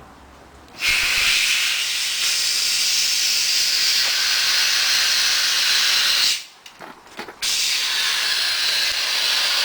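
Pressurized gas hissing out of the repaired gas line in two long, loud bursts with a short break between, as the line is purged.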